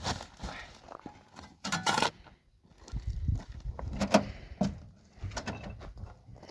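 Irregular knocks, clatters and scraping noises of objects being handled, with a noisy rustling burst a little under two seconds in and the sharpest knock about four seconds in.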